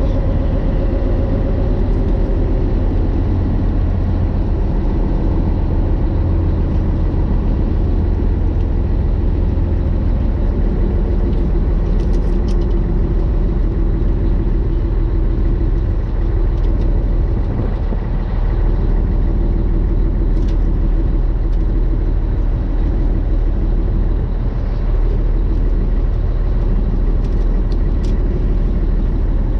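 Engine of a moving vehicle running steadily at speed: a loud, unchanging low rumble, with a few faint ticks over it.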